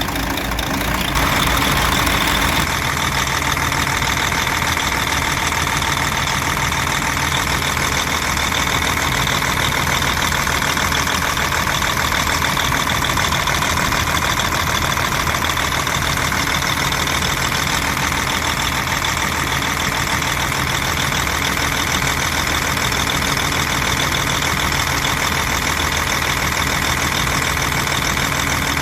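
DAF 105 truck's diesel engine running steadily at a slightly raised speed. It picks up a little about a second in and then holds an even note.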